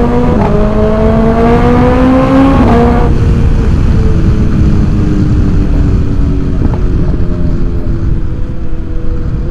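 BMW S1000XR inline-four through its Akrapovic titanium exhaust, accelerating hard with the pitch rising and short upshifts about half a second in and near three seconds in. Then the throttle eases off and the engine note settles lower and falls slowly while cruising, over heavy wind rush.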